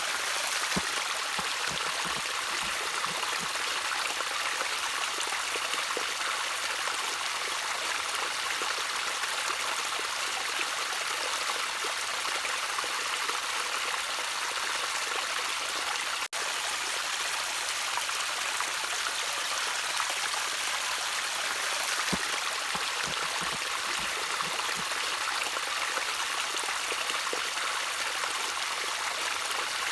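Gently trickling stream water: a steady, even rush of flowing water with faint low gurgles and plops, cut by a momentary dropout a little past halfway.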